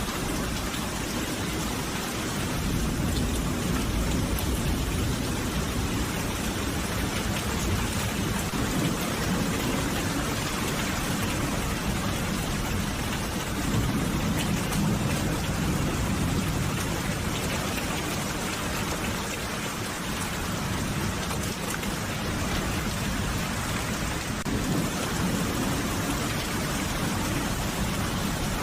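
Steady rain falling as an even hiss, with a low rumble underneath that swells and fades several times.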